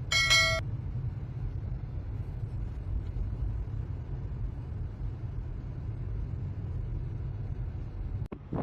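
Steady low rumble of a car driving on a winter road, its engine and tyre noise. A short, loud pitched beep sounds right at the start.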